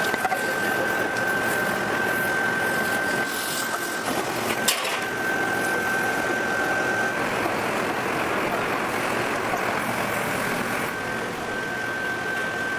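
Steady machinery noise with a constant high whine running through it, and a single sharp click a little under five seconds in.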